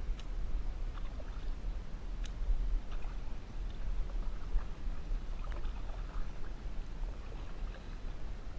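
Water lapping and small splashes around a kayak, with scattered light ticks over a steady low rumble.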